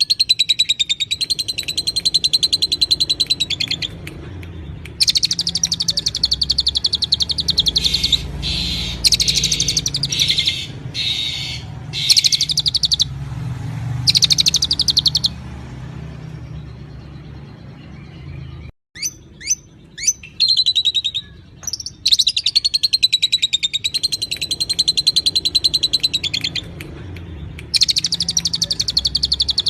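A songbird singing long, rapid, high trills of several seconds each, broken by a pause about halfway, then a few sharp down-slurred whistles before the trilling starts again.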